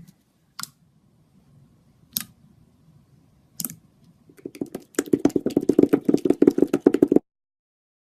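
Butter slime being squished and poked by hand: a few separate sticky clicks, then from about four and a half seconds in a rapid run of crackling clicks and small air pops that stops abruptly about seven seconds in.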